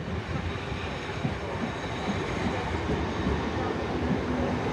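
Southern Class 377 electric multiple unit running into the platform, its rumble growing steadily louder, with a steady low whine coming in near the end.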